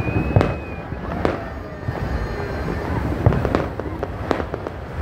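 Aerial fireworks shells bursting: about six sharp bangs at uneven intervals, two of them close together in the second half. A high thin whistle rises and stops about a second in.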